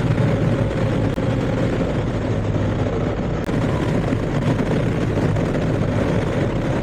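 BMW R1250GS boxer-twin motorcycle engine running steadily at road speed, mixed with a dense rush of wind noise on the rider's helmet-mounted microphone.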